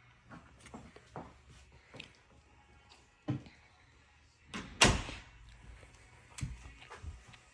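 Scattered knocks and thumps on hard surfaces, with one loud thump about five seconds in.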